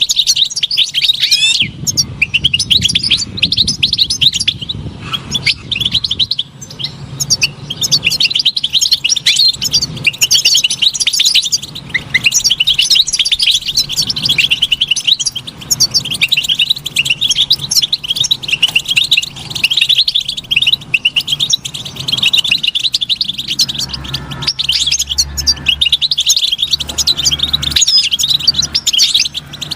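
European goldfinch singing a fast, continuous twittering song of rapid chirps and trills with almost no pauses.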